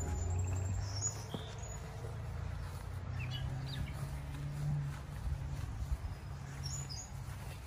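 Outdoor garden ambience: birds chirping in short scattered calls, a few at a time, over a faint low steady hum.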